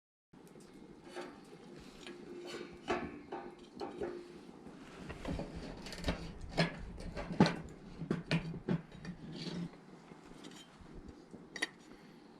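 Metal cookware and utensils clinking and knocking at irregular intervals, a few sharper strikes in the middle.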